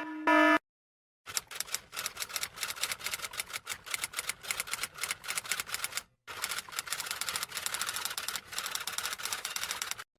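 Typewriter typing: rapid, dense clatter of keystrokes in two runs, with a short break about six seconds in. It opens with the tail end of a beeping buzzer.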